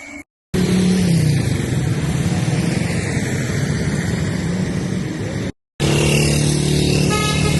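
A motor vehicle engine running steadily with a low hum, under a continuous hiss. The sound drops out twice for an instant at edit cuts.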